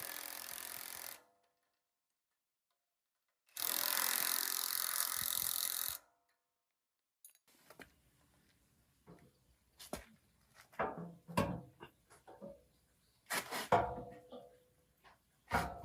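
Workshop sounds: two bursts of steady hiss, the second longer, about two and a half seconds, then a run of separate knocks and taps from tools and metal parts being handled.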